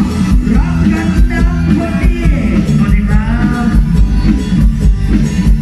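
Live Thai mor lam band music with a steady drum beat and melody lines that slide in pitch, possibly a singer's voice.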